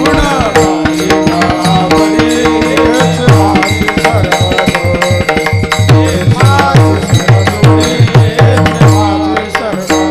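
Devotional kirtan music: a hand drum plays rhythmic bass strokes that fall in pitch, over a steady held note and sharp metallic clicks, with wordless melodic vocal phrases rising and falling above.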